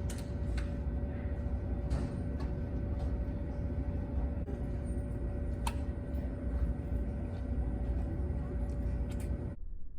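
Steady low rumble of a car on the move, heard from inside the cabin, with a faint steady hum and scattered light ticks.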